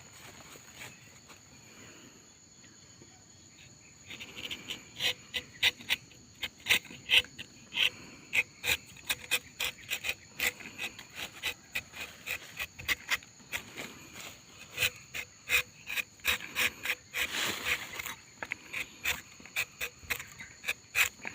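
Rubber-tapping knife scraping and cutting into rubber tree bark in quick, irregular rasping strokes, starting about four seconds in, over a steady high drone of insects.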